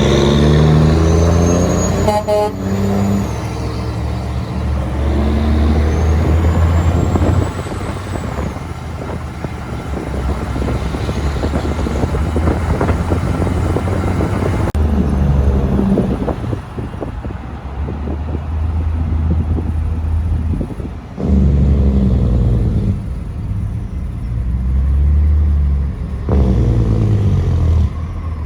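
Heavy trucks passing by one after another on a highway, their diesel engines droning loud then fading as each goes past.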